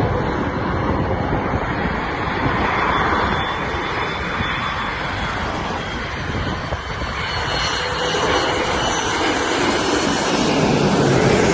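Jet airliner passing low overhead on final approach, a loud rushing engine noise with a faint high whine, growing louder near the end.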